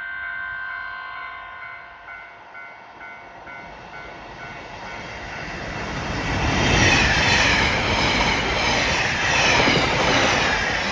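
JR Hokkaido 789 series electric limited express passing through the station at speed. It builds from about four seconds in to a loud rush of wheels and running gear, loudest over the last four seconds. Before that, a repeating warning bell rings and stops about five seconds in.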